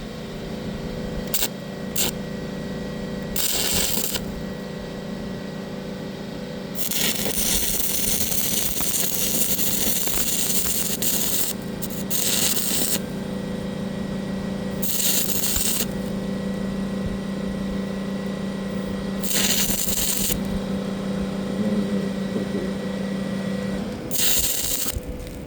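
Stick-welding arc crackling in bursts as holes in rusty bumper steel are filled: several runs of about a second and one longer run of about four seconds. A steady machine hum sits underneath and stops near the end.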